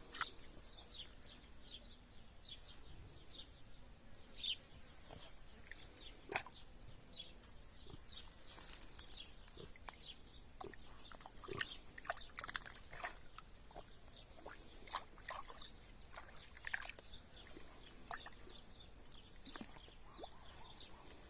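Faint pig sounds among many short, scattered clicks and chirps.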